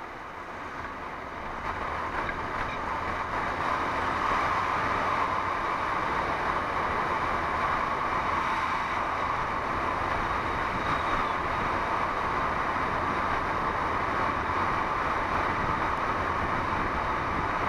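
Steady wind and road noise from a motorcycle cruising on the highway, with the engine running beneath it; it builds over the first few seconds and then holds even.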